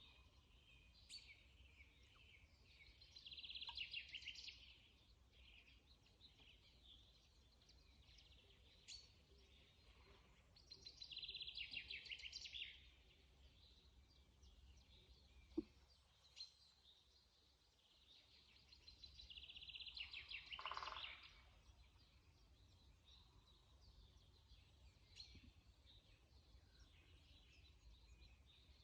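Forest birdsong: one songbird sings a rapid trilled phrase about every eight seconds, three times, over scattered faint chirps from other birds. A low steady rumble runs underneath.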